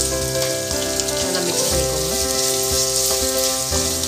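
Chopped onion frying in hot ghee and oil with whole spices in a kadai: a steady sizzle, as the onion starts to soften toward golden brown. Steady background music plays underneath.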